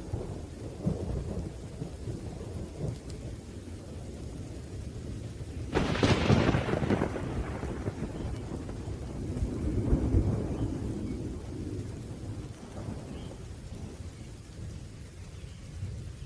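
Thunderstorm: continuous rolling thunder with rain, a sharp thunderclap about six seconds in that rumbles away over a couple of seconds, and another swell of rumbling around ten seconds.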